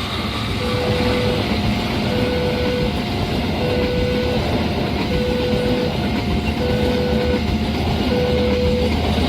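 Railway level-crossing warning alarm sounding a repeating pitched tone, about one every second and a half, over the steady rumble of a passing train.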